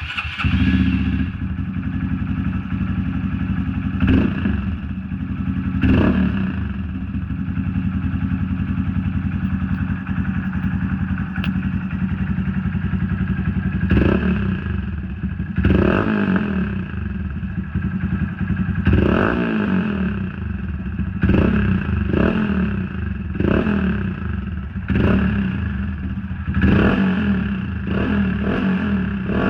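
Honda Monkey 125's single-cylinder four-stroke engine running loud through a Black Widow aftermarket exhaust with its baffle removed: a steady idle blipped up in about a dozen short revs, coming more often in the second half.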